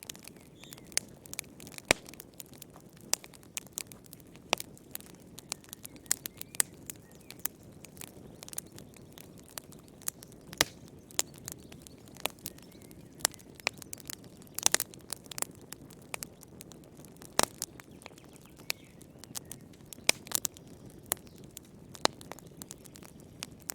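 Wood fire crackling in a fireplace: irregular sharp pops and snaps, several a second, over a soft low rumble of the flames.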